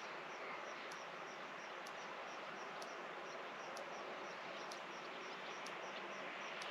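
Faint outdoor ambience: a steady hiss with small high chirps repeating evenly about four times a second and a sharper high tick about once a second, typical of calling insects.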